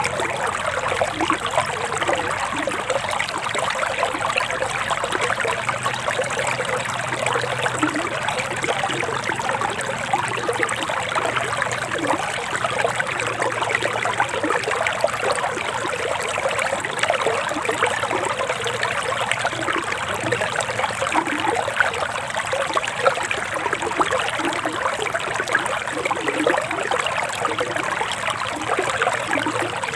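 A shallow forest stream babbling and trickling steadily over stones, a continuous splashing water sound without pause.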